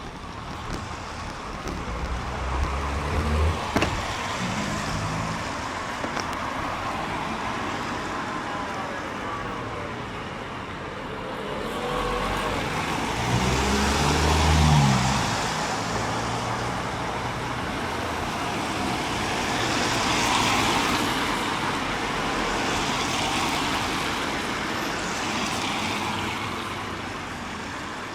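Road traffic on a wet road passing close by: cars swish past one after another with a hiss of tyres on water, and one louder engine goes by about halfway through, its pitch bending up and then down as it passes.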